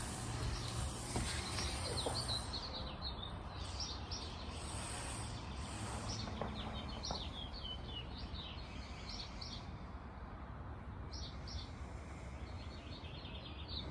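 Small birds chirping: many short, high chirps scattered throughout, over a steady low rumble of outdoor background noise.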